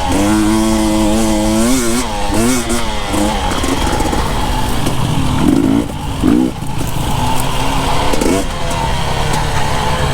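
Husqvarna TE 250i two-stroke dirt bike engine under way: held at steady revs for about two seconds, then revving up and down in several short bursts, with a steady rush of wind and riding noise.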